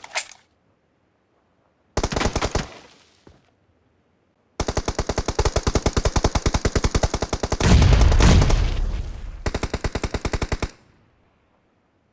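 Automatic gunfire in a shooter video game. A short burst about two seconds in is followed by a long rapid burst of about six seconds, with a louder, deeper blast near its middle.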